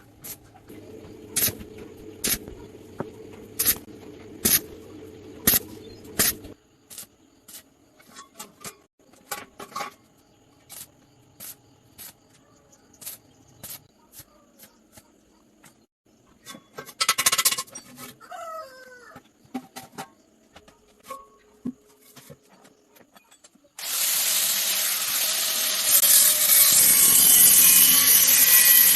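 Hand tools clicking and tapping on metal parts, with a low hum under the first few seconds. A loud, steady hiss starts about 24 seconds in and runs on.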